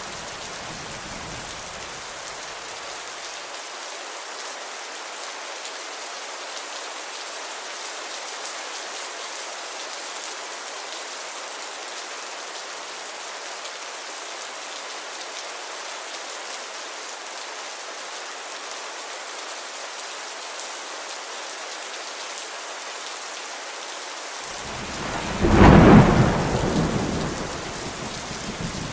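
Steady rainfall hissing throughout. Near the end a loud clap of thunder breaks in and rolls off over a couple of seconds.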